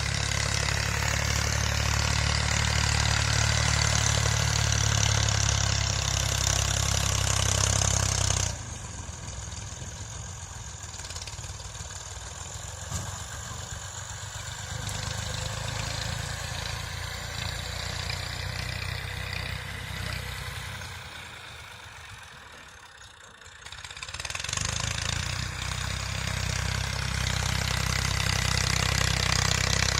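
Massey Ferguson tractor's diesel engine running steadily. About a third of the way in the sound drops suddenly and stays much quieter, then comes back to full loudness a few seconds before the end.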